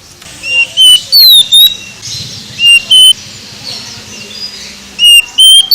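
Oriental magpie-robin (kacer) singing loud, clear whistled phrases of short steady notes and falling whistles, in three bursts: just after the start, about three seconds in, and near the end. Fainter high chirping fills the gaps.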